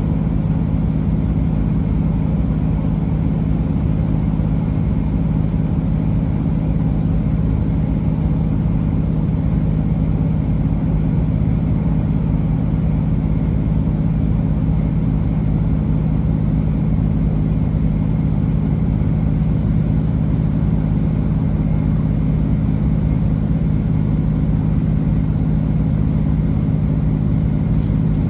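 Class 165 diesel multiple unit under way at a steady speed: its underfloor Perkins diesel engines give an even, unchanging low drone, with wheel and rail noise spread above it.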